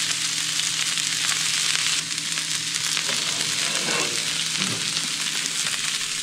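Fish fillets sizzling in olive oil and butter in a smoking-hot cast iron skillet: a dense, steady frying hiss, with a low steady hum underneath.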